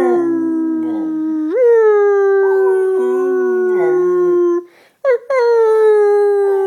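A dog howling in long, steady, siren-like howls. The first howl steps up in pitch about a second and a half in and breaks off past the middle, then a short yelp and a new long howl follow.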